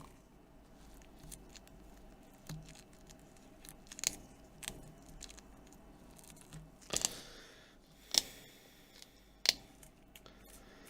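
Sparse light clicks, taps and scrapes of hands and a small tool working on a tablet's glass screen and adhesive tape, with a few sharper ticks in the second half.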